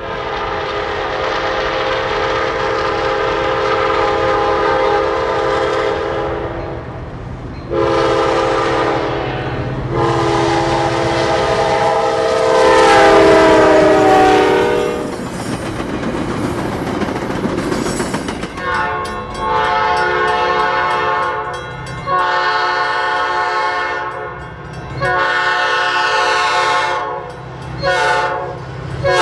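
Passenger diesel locomotive's multi-chime air horn sounding a series of long and shorter blasts over the low steady drone of the engine. The horn's pitch drops during the third blast as the train passes.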